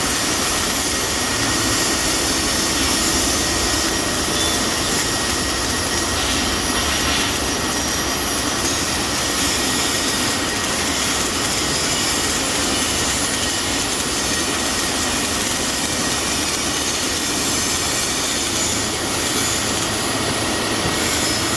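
Robotic welding cell running: a loud, steady hiss with a faint constant high whine over it.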